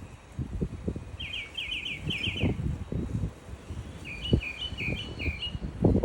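A small songbird singing: a quick run of about six clear, sliding notes, then after a short pause a second run of up-and-down zigzag notes. Irregular low rumbling thumps run under the song and are louder than it.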